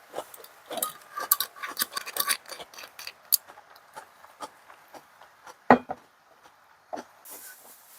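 A run of small clicks, taps and light knocks, busiest in the first few seconds, with one louder knock just before six seconds in.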